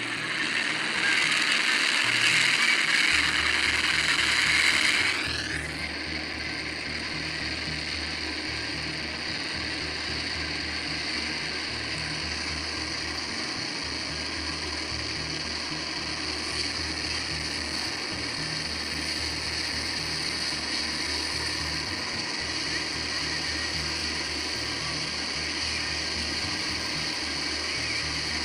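Helicopter in flight, a steady rhythmic rotor chop under engine noise. A louder rushing noise sits over it for the first five seconds or so.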